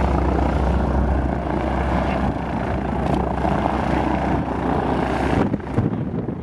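Piston-engine propeller airplane taxiing close by, its engine running with a steady loud drone that cuts off abruptly about five seconds in, leaving gusty wind on the microphone.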